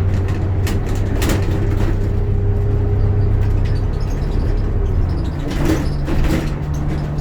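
Bus engine running under way, heard from inside the cabin, with interior rattles and clicks. The engine's steady hum changes pitch about five and a half seconds in.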